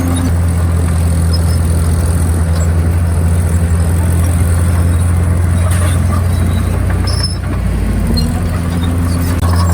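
Komatsu D51PX crawler bulldozer's diesel engine running steadily, with a higher whine-like tone at the start and again a little before the end.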